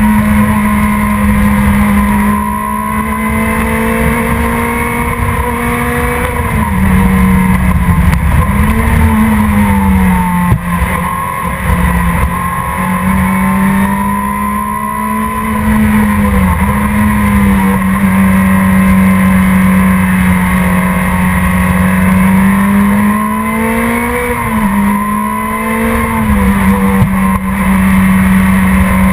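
Production sports car's engine running hard at racing speed, its pitch held high and steady. It dips briefly and climbs back a few times, about 7, 9, 16 and 24 seconds in.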